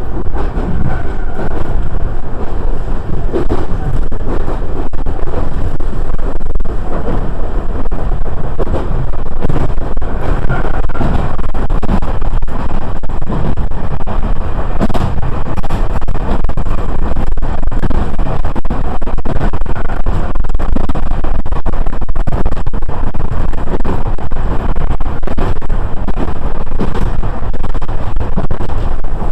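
Iyo Railway commuter train running along the track: a steady rumble of wheels and motors, with light clicks throughout.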